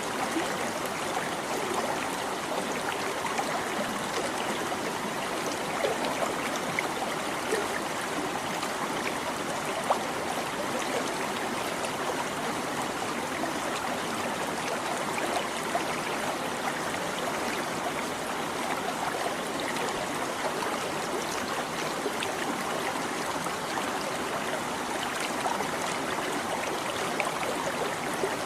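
Shallow stream babbling and trickling over stones, a steady rush of water with small splashes and gurgles scattered through it.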